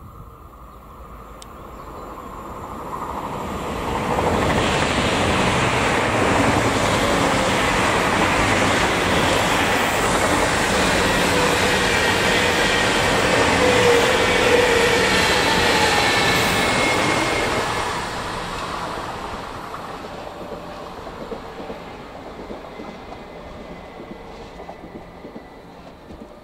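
ICE high-speed electric train passing at speed. Its rolling noise builds, stays loud for about fourteen seconds, then fades as the train runs away; faint whining tones slide down in pitch near the middle.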